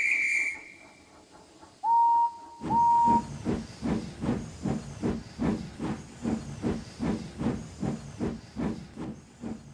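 Steam locomotive: a high whistle cuts off just after the start, then two short whistle toots, then the engine chuffs away at about two beats a second, fading as it goes.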